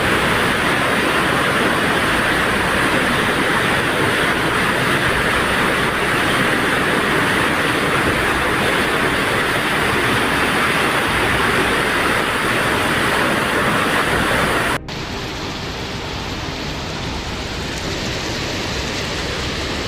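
Floodwater rushing as a loud, steady noise. About fifteen seconds in it cuts abruptly to a quieter rush of water.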